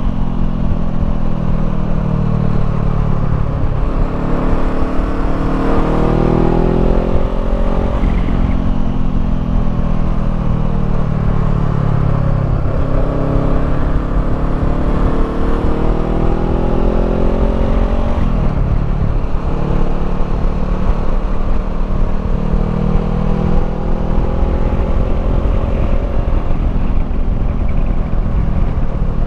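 Honda CBR500R's parallel-twin engine through a Termignoni slip-on exhaust, under way. The revs climb and drop sharply several times as the rider accelerates and shifts or rolls off the throttle.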